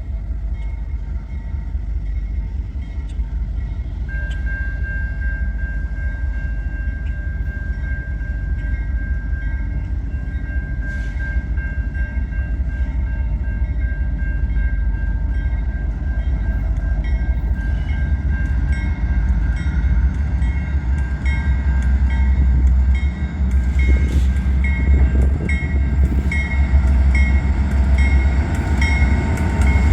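Diesel freight train locomotives rumbling, growing louder as the train approaches. From about twenty seconds in, a bell rings at a steady beat, a little over once a second.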